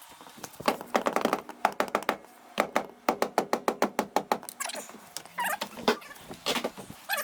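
Hammer striking at the rusty seat bolts on the underside of a 1964 Ford Falcon: a run of sharp knocks, some scattered and then a quick even series of about seven blows a second, with a few spaced knocks later on.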